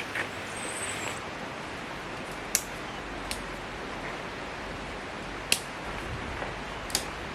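Steady outdoor background hiss with four short sharp clicks spread through it.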